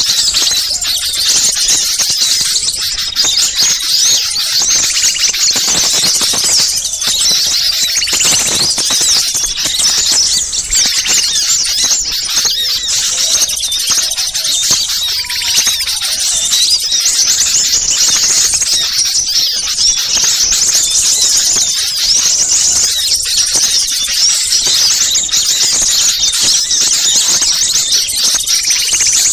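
A dense, continuous chorus of high-pitched calls and chatter from many small songbirds, a noisy bird-luring recording of mixed small birds such as sunbirds and tailorbirds.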